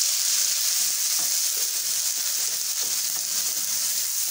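Blended tomatoes with ginger and garlic sizzling in hot oil on fried onions, stirred with a wooden spoon: a steady, high hiss of frying.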